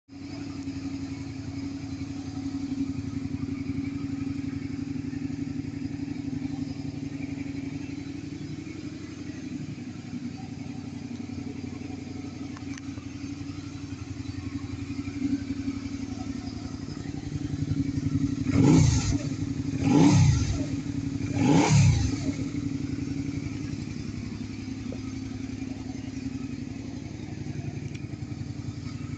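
Suzuki Gladius V-twin engine idling through an aftermarket exhaust muffler, blipped three times in quick succession about two-thirds of the way through, each rev rising and falling back to idle.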